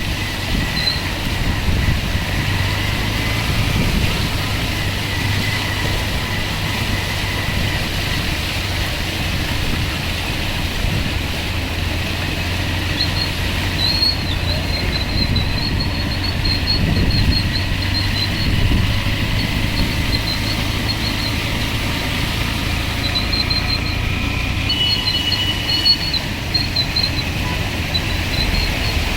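Steady rumble of road traffic and vehicle engines, with faint, irregular high chirps from about halfway through.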